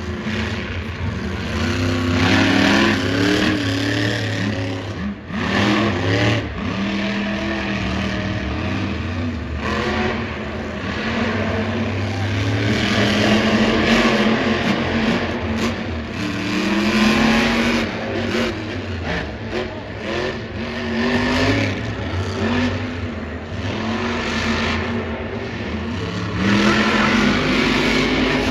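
Monster truck engines, supercharged alcohol-burning V8s, running hard on a timed run, the pitch climbing and dropping again and again as the throttle is worked.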